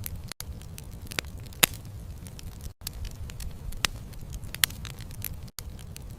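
Campfire burning with a low steady rumble and irregular sharp crackles and pops of the wood, the loudest two about a second and a half in and near the end. The sound cuts out for a split second three times.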